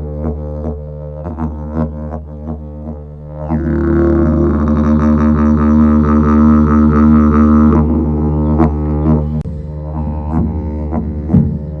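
Didgeridoo playing a continuous low drone with rich overtones, pulsed in a rhythmic pattern. About a third of the way in it swells into a louder, brighter held tone, then falls back to the rhythmic pulsing.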